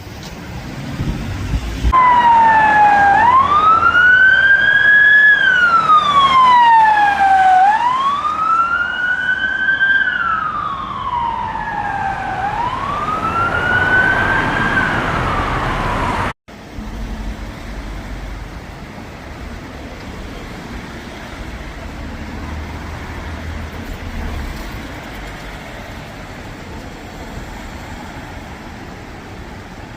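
An emergency vehicle siren wailing in slow rises and falls, starting a couple of seconds in and cutting off suddenly about halfway through. After that only steady road traffic noise remains.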